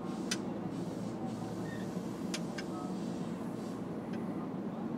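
Kintetsu 3220-series electric train making a steady low rumble with a faint hum, with a few sharp clicks.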